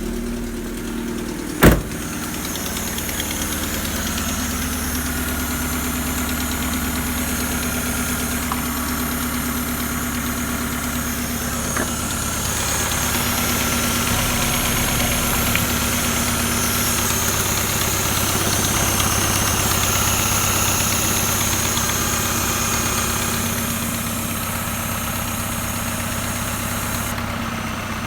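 Opel X20XEV 2.0-litre 16-valve four-cylinder petrol engine idling steadily, a little louder through the middle stretch, with one sharp knock about two seconds in.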